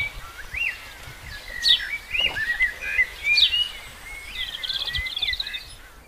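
Small birds calling: a string of short chirps and whistles that rise and fall in pitch, with a quick trill about four and a half seconds in, over a faint outdoor background hiss.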